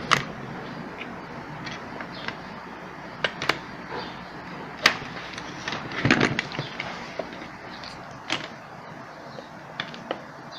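Scattered clicks and light knocks of hands handling the parts of an opened electric drill, with a short cluster of rattling knocks about six seconds in.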